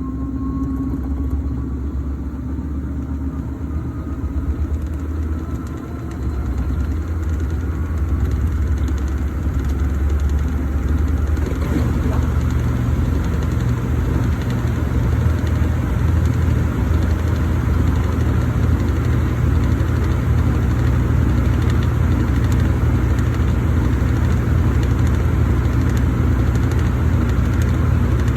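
Brastemp Vantage washing machine in its final spin with a load of microfiber blankets: a faint rising whine as it speeds up early on, then a louder, steady spinning hum once it reaches speed.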